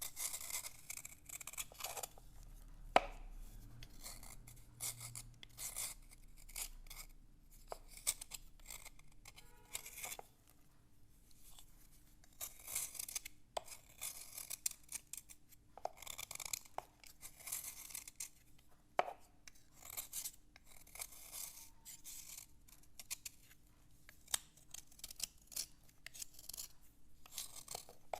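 Writing slate being scratched and rubbed in short, irregular strokes, a dry rasping scrape, with one sharp click about three seconds in and a brief lull near the middle.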